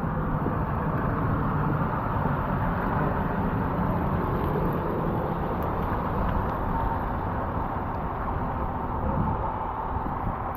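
A vehicle running steadily, a continuous rumble and hiss with no sharp events.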